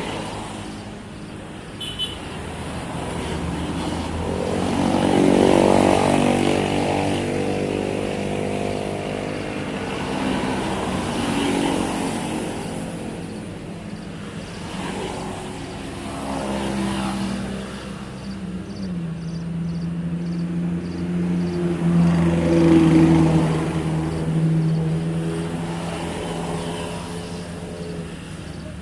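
Motor vehicle engines passing, their pitch and loudness rising and falling, loudest about five seconds in and again about twenty-two seconds in.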